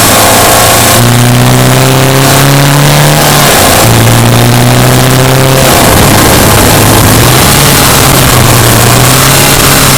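Subaru Impreza Sport's flat-four engine pulling under load while driving. The revs climb, break off about three and a half seconds in, climb again, then settle to a steadier note for the rest.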